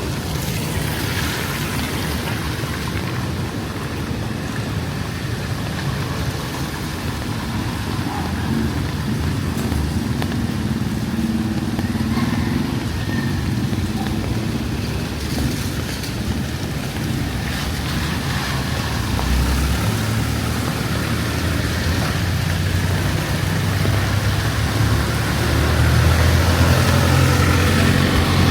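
Street traffic: motor vehicle engines running under a steady hiss, with one engine coming closer and growing louder over the last third.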